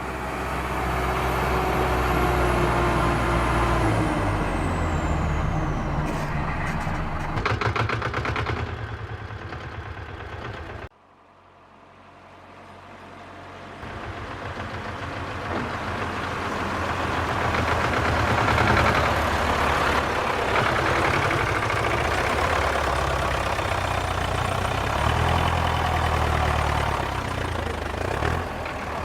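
A heavy vehicle engine running steadily, like a truck or tractor, with a high whistle that falls in pitch over the first few seconds. It cuts off abruptly about 11 seconds in, then fades back up and runs on.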